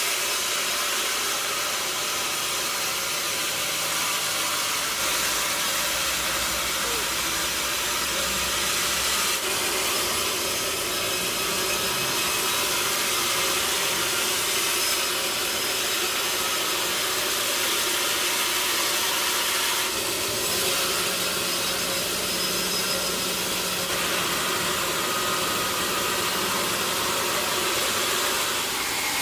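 Sawmill machinery running steadily, a constant high-pitched hiss with a faint low hum that comes and goes.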